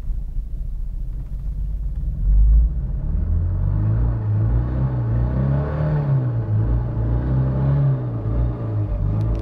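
Mk1 Astra estate's engine running, heard from inside the car: a low rumble at first, then revved up and let back a few times. It still has a misfire low in the rev range.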